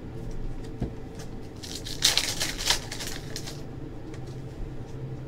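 Rustling and crinkling of trading card packs and wrappers being handled, loudest for about a second and a half starting about two seconds in.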